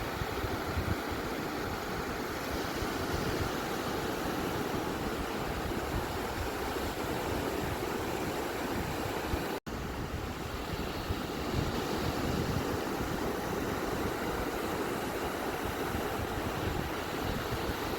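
Steady wash of ocean surf on a beach: an even roar with no single breaking wave standing out, broken by a split-second dropout to silence about halfway through.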